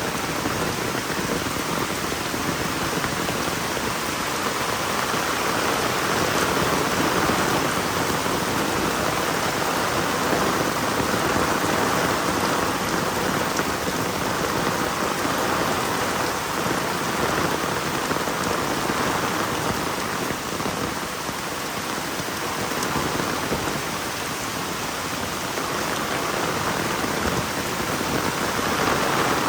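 Heavy rain falling steadily: a dense, even hiss of drops striking the ground and surrounding surfaces.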